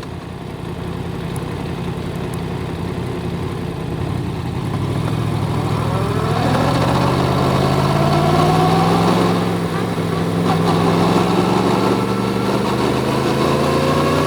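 Yamaha MT-10's crossplane inline-four engine running, then pulling under acceleration with its pitch climbing steadily from about six seconds in. It dips briefly near ten seconds in, then climbs again.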